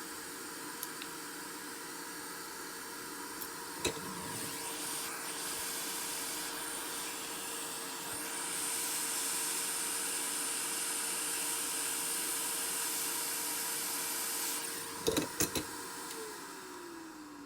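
Hot air gun blowing with a steady hiss and fan hum, growing louder about four seconds in and again near nine seconds. A few sharp clicks come near the end, then it is switched off and the fan winds down with a falling pitch.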